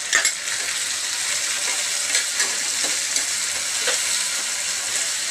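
Chopped tomatoes and onions sizzling in hot oil in a kadhai, stirred with a metal spatula that scrapes and taps the pan a few times over a steady hiss of frying.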